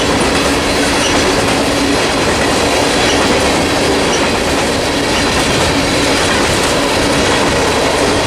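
Freight train rolling past at close range: a steady rumble and clatter of steel wheels on the rails, with a faint steady hum underneath.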